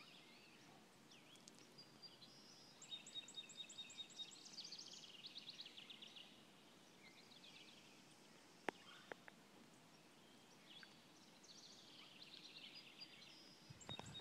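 Faint birdsong outdoors: songbirds singing rapid high trills and a thin steady whistle in several phrases, with a couple of sharp clicks a little past halfway.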